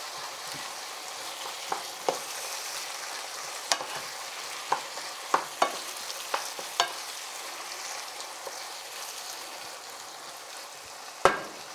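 A mixture of onions, garlic, carrot and tomato paste sizzling steadily in a frying pan while it is stirred, with the spoon clicking against the pan every second or so during the first part and once more near the end.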